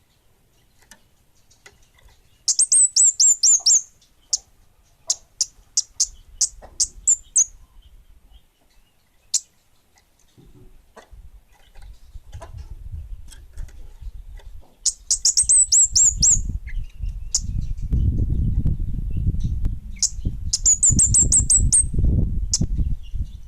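Kemade bunga api songbird calling in very high, thin notes: quick runs of sharp chirps, three times, with single notes spaced between them. A low rumble builds through the second half.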